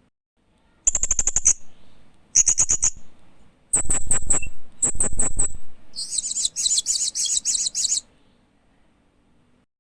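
Hanging parrot (Loriculus) giving bouts of rapid, high-pitched chirps: four short trilled bursts, then a longer run of chirps about six seconds in.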